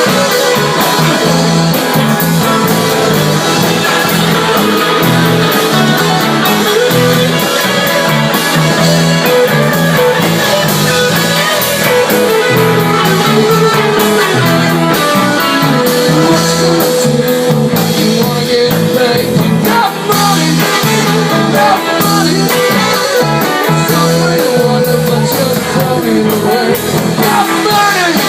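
A rock band playing live, with guitar, drums and singing.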